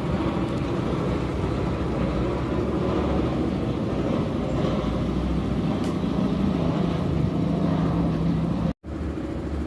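Steady motor-vehicle engine rumble, with a low steady hum joining in about six seconds in. The sound cuts out for an instant near the end.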